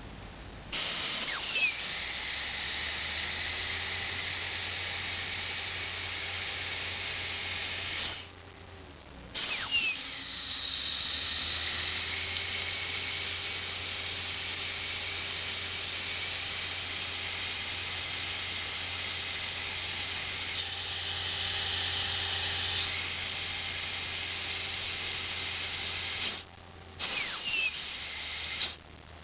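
Compressed air blowing from a Denyo DPS90 high-pressure air compressor as a loud hiss, with a low steady hum beneath. The hiss cuts off about eight seconds in and starts again a second later. It runs for about seventeen seconds, then comes in a few short blasts near the end.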